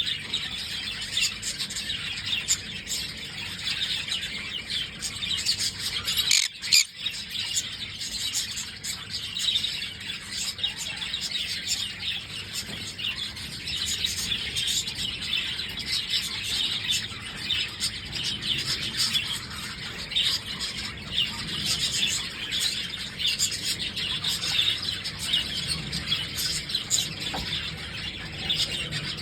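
Green-cheeked conure chirping and squealing in a rapid, unbroken run of short high calls, with a brief pause about six and a half seconds in.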